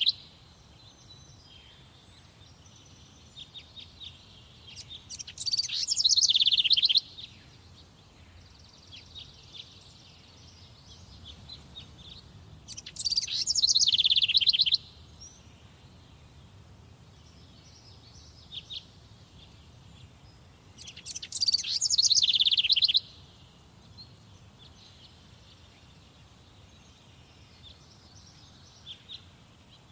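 Forest songbirds singing. One loud bird repeats the same song of rapid notes, about two seconds long and falling in pitch, roughly every eight seconds, three times. Fainter chirps from other birds sound in between.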